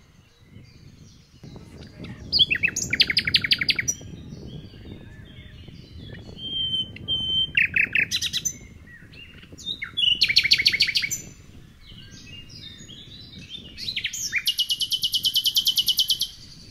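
A songbird singing in several loud phrases of fast, high trills, with short chirps between them; the longest trill comes near the end. A low steady rumble lies beneath.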